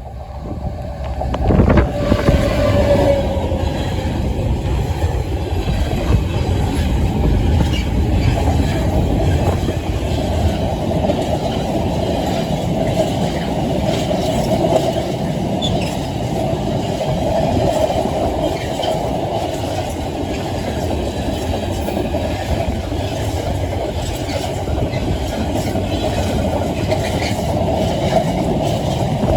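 Freightliner freight train passing over a level crossing. The locomotive arrives with a sudden loud rush a couple of seconds in, then a long, steady rumble of wagons rolling past.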